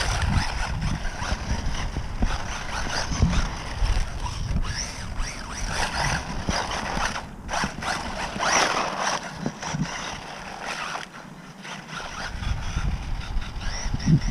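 Small electric RC truck (WLtoys 1:18 short course truck) running, its motor whining in uneven bursts as the throttle is worked.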